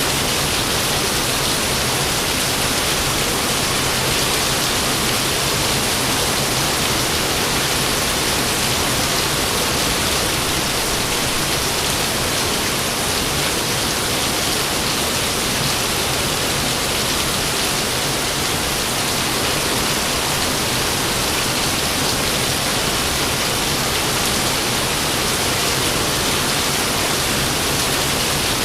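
Steady heavy rain, an even unbroken hiss with no thunder heard.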